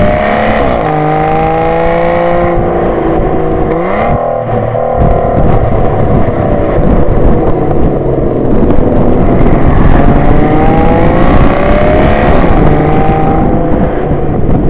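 Mountain bike rear freehub buzzing loudly while coasting, an engine-like whine whose pitch rises and falls with wheel speed, over wind and trail noise.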